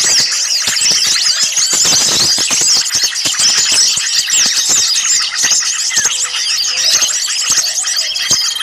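A dense mixed chorus of many small songbirds chattering and chirping at once, rapid squeaky calls overlapping throughout, with a few longer whistled notes. It is an agitated, noisy flock played as a bird-lure recording.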